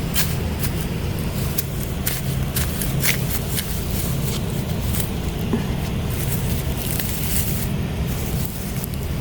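Repeated short scrapes and crackles of a hand tool digging wild greens out of soil, over a steady low rumble.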